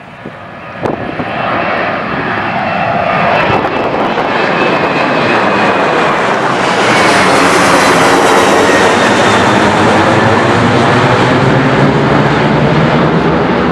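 Boeing 737-800's CFM56 jet engines at takeoff power, swelling louder over the first two seconds, gaining a hissing edge about seven seconds in, then staying loud and steady.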